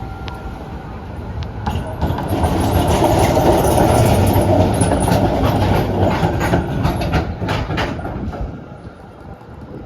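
Z3-class tram passing close by: its running noise swells to a loud rush about two seconds in, then its wheels clack over the track in a run of sharp clicks before it fades near the end.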